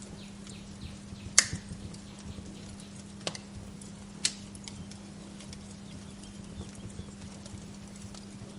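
Wood fire crackling in a fireplace: scattered faint ticks and three sharp pops, the loudest about one and a half seconds in and two more around three and four seconds, over a steady low hum.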